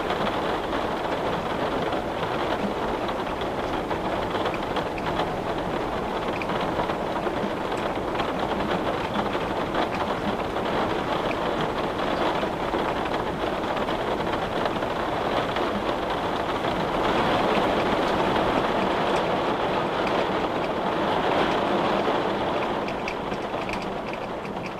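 Steady rain falling in a dense patter of drops, swelling a little louder in the second half and easing near the end.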